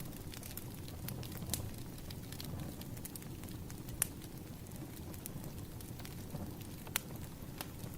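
Wood fire crackling: sharp pops and snaps at irregular intervals, the loudest about four and seven seconds in, over a low steady rush.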